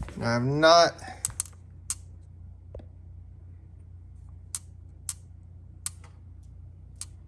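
About half a dozen light, sharp clicks at irregular intervals, as of small engine parts being handled at the workbench, over a steady low hum.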